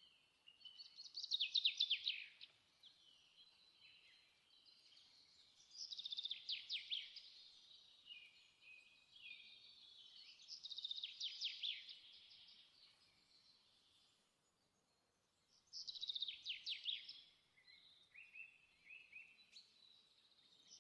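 Songbird singing: four loud phrases of rapid, down-sweeping trilled notes, about five seconds apart, with softer chirps in between.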